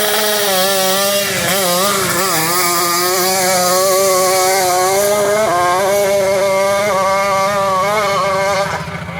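Dirt bike engine at high revs under full load on a hillclimb run, its pitch wavering as the rider works the throttle over the terrain, with a brief dip about five and a half seconds in. The sound falls away near the end.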